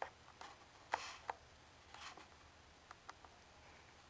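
Near-quiet background with a handful of faint, irregular clicks and ticks.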